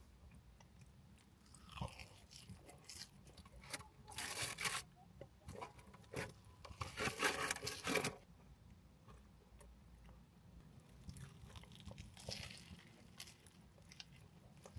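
Close-up eating sounds: crunchy bites into fried food and chewing, with louder bursts of crunching about four seconds in, again from about six to eight seconds, and near the end.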